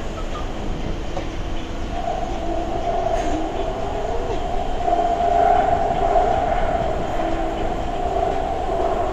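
Rapid-transit train running between stations, heard from inside the carriage: a steady rumble with a humming whine that grows louder from about two seconds in.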